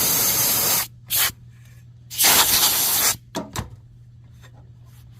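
Compressed air blown through a blow gun in three blasts: about a second long, a short one, then another about a second long, all over by about three seconds in.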